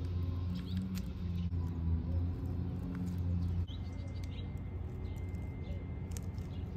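A steady low hum, which drops suddenly about three and a half seconds in, with a few short high bird chirps in the second half.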